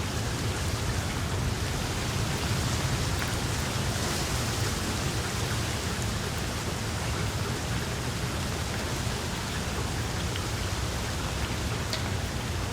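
Wood fire burning in a fireplace: a steady hiss with scattered small crackles and pops, a sharper pop near the end.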